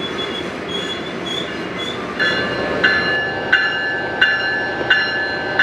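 Train rolling by with its wheels squealing on the rails. About two seconds in, a railroad crossing bell starts ringing, one even stroke roughly every 0.7 seconds.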